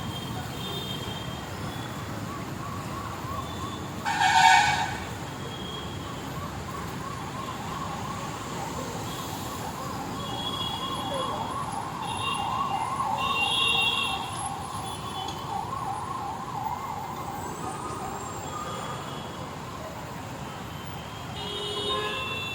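An emergency vehicle's fast warbling siren sounds over steady road traffic, growing louder to a peak a little past the middle and then fading. A vehicle horn blares once, loudly, about four seconds in.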